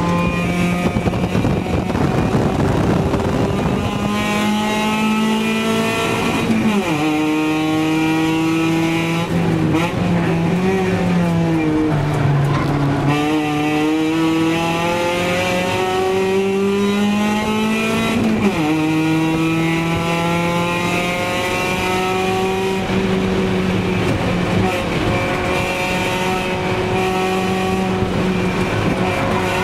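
Drift car's engine under hard driving, heard from inside the cabin: the revs climb slowly and drop sharply twice, about 7 and 18 seconds in, then climb again. Tyre squeal and road noise run underneath.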